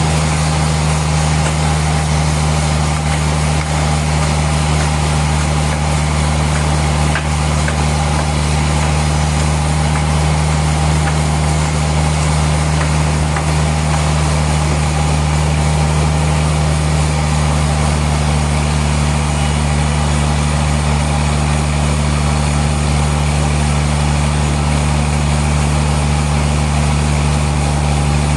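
Sawmill machinery running with a loud, steady drone and an even hum that does not change.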